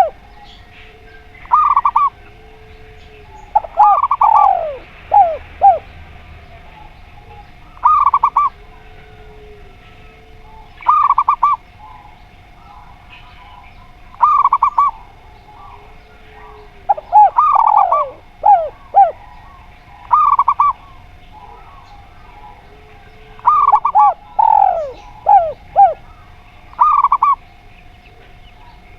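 Doves calling: a zebra dove (perkutut) and a derkuku dove. There are short bursts of cooing about every three seconds, three longer phrases of notes falling in pitch, and softer low coos in between, over a steady faint hum.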